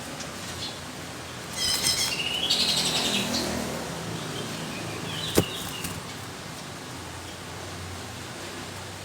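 Greater green leafbird (cucak ijo) singing a burst of rapid, harsh notes for about two seconds, starting about a second and a half in. Later a single sharp click and a brief call, over a steady faint hiss.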